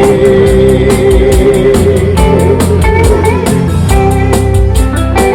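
Live band playing a slow country-rock song: the singer holds the last word of a line, then guitar carries on over bass and drums, with steady cymbal strokes.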